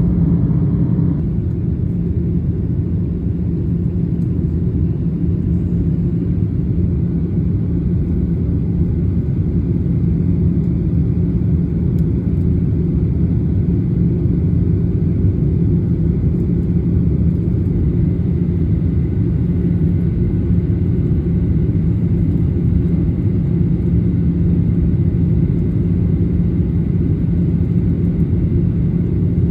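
Steady low rumble of a moving vehicle heard from inside, with a constant low hum.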